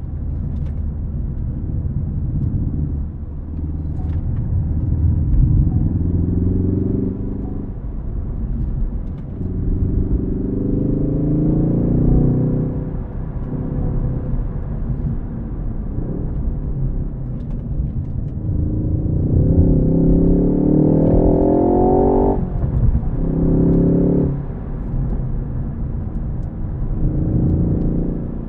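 Ford Focus ST engine accelerating hard through a manual gearbox: about five pulls with the engine note rising, each cut short by a sudden drop in pitch at a gear change or lift-off. The longest, highest-revving pull comes a little past the middle.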